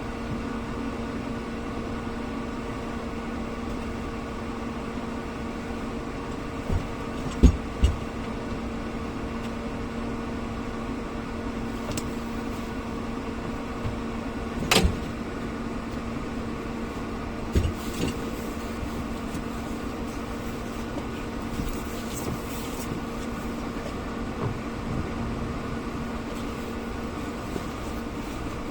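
Vehicle engine running at a steady speed, a constant even hum, with a few scattered knocks and clicks, the sharpest about fifteen seconds in.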